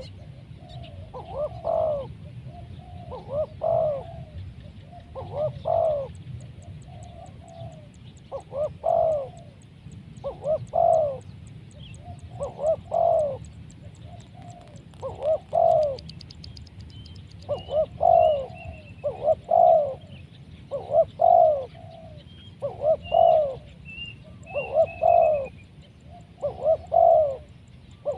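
Spotted dove cooing: a low, rolling coo phrase repeated about every two seconds. A small bird chirps faintly in the middle.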